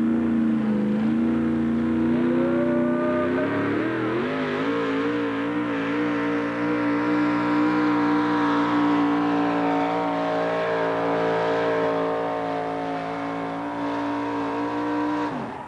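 Modified 4x4 pickup truck's engine at full throttle pulling the sled: revs climb about four seconds in and hold high and steady, then drop off suddenly near the end as the throttle is let off.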